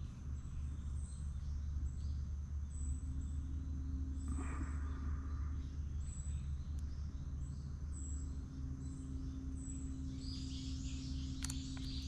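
Birds chirping in short, repeated high calls, busier near the end, over a steady low rumble and a faint continuous hum.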